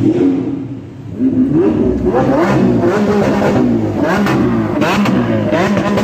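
Lamborghini supercar engine revving hard, its pitch climbing in a series of quick rises after a short dip about a second in.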